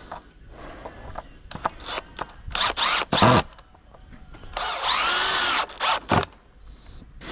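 Power drill run in several short trigger bursts, its pitch rising and falling with each, including one longer run of about a second midway.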